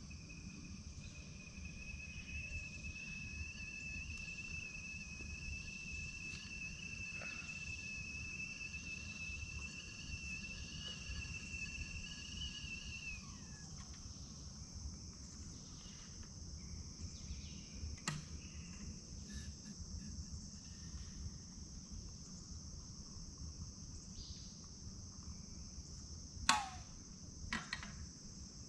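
Night-time insect chorus, crickets chirring steadily at a high pitch. A steady higher tone runs for the first half and slides down about halfway through. A few sharp clicks come later, the loudest a quick downward chirp near the end.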